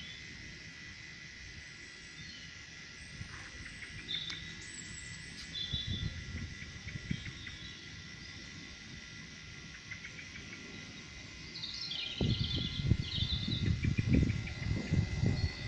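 Outdoor ambience: a steady high insect trill with scattered short bird chirps. Toward the end, a louder low rumbling noise joins in.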